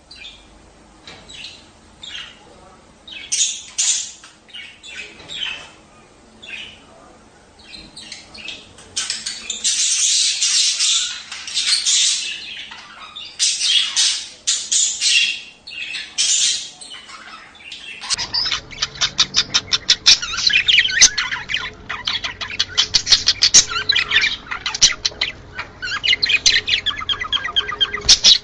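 Budgerigars chattering and squawking in a busy flock, with irregular bursts of high warbling. About two-thirds of the way through, the recording changes abruptly to denser, faster chatter.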